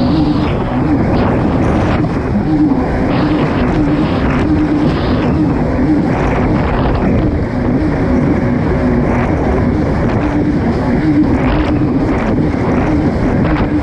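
Kawasaki STX 160 personal watercraft's four-stroke engine running hard under race throttle, its pitch wavering up and down as the craft skims the water, with wind noise on the microphone.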